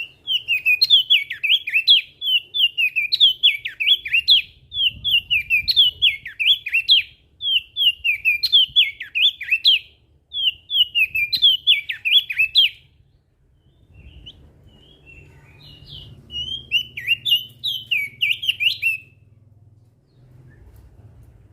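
Crested white-eye (opior jambul) singing loud, fast chattering phrases of quick, sliding high notes, in runs separated by short breaks; the song stops about 19 seconds in, leaving a faint low hum.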